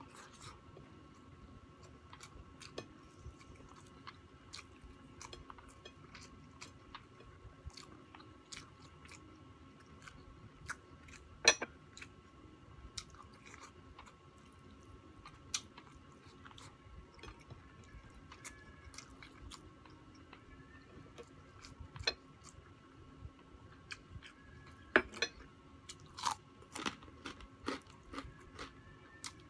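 Close-miked chewing and crunching of food, with many scattered sharp mouth clicks; the loudest crunches come about 11 seconds in and again near 25 seconds.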